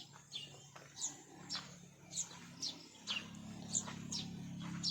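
A bird calling over and over: short, high chirps that fall in pitch, about two a second. A low steady hum comes in about halfway through.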